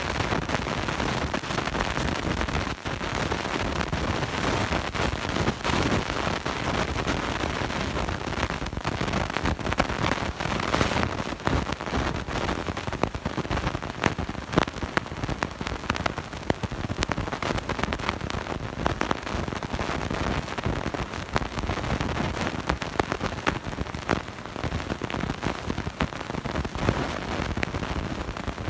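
Loud crackling noise from a bad recording: a dense hiss across all pitches, broken by many irregular sharp clicks and pops.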